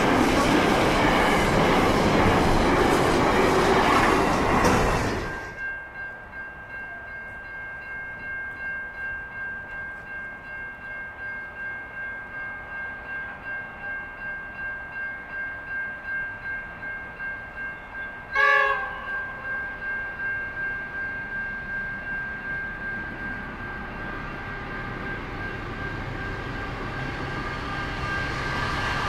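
A double-stacked container freight train rolls past, loud and steady, until it cuts off abruptly about five seconds in. Then a level crossing bell rings steadily, pulsing about once a second, with a short horn toot about two-thirds of the way through. A Pacific National diesel locomotive hauling a passenger train approaches, its rumble growing louder toward the end.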